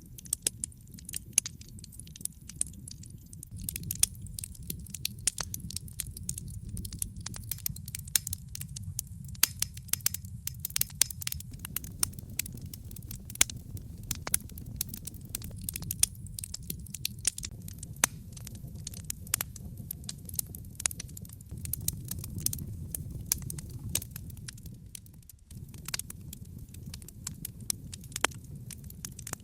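Wood fire burning in a fireplace: logs crackling and popping irregularly over a steady low rumble of the flames.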